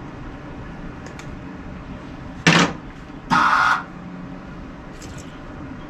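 Two short, loud bursts from a flux-core wire-feed welder as its trigger is pulled, the first about two and a half seconds in and the second, slightly longer, about a second later. They come as the wire feed speed is being turned up to get the wire sliding through after it jammed in the tip.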